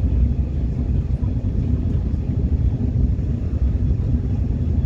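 Subway train running: a steady low rumble with no distinct knocks or tones.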